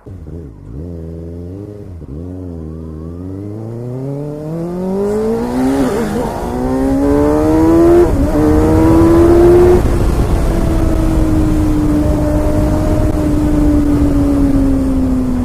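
Kawasaki ZX-6R's inline-four engine, blipped a few times and then accelerating hard, its pitch climbing through two upshifts before settling into a steady high-rev run that eases off slightly near the end.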